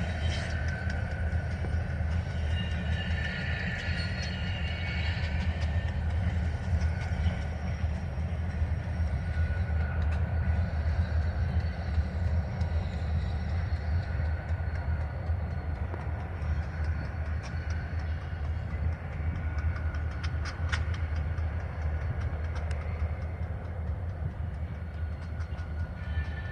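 Train cars rolling past with a steady low rumble that lasts the whole time.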